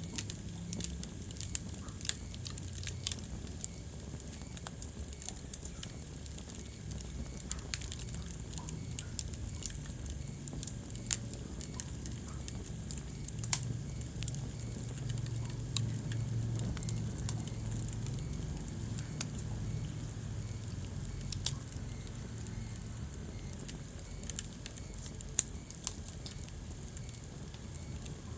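Wood fire burning in a fireplace: a steady low rumble of flames with constant crackling and irregular sharp pops from the burning logs.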